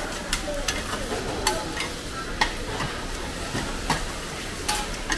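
Oyster omelette frying in oil on a large flat wok, sizzling steadily, while two metal spatulas scrape and clack against the pan at irregular moments.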